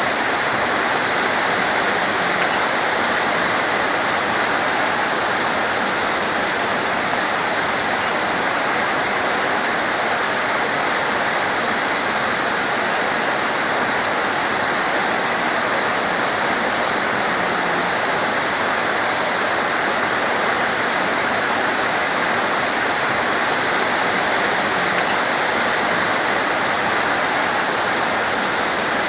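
Heavy torrential rain falling steadily, a dense even hiss, with one sharp click about halfway through.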